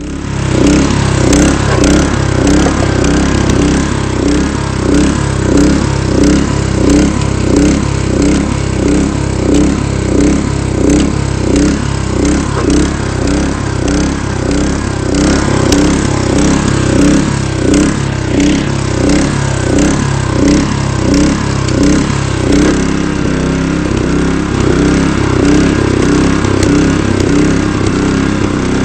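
Honda HS-55 snowblower's four-stroke engine running at speed, with a regular pulsing in its note that evens out into a steadier run about two-thirds of the way through.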